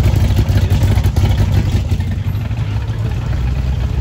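Classic car engine and exhaust rumbling at low speed as the car drives past, loudest in the first two seconds and lower after, as a second car rolls up.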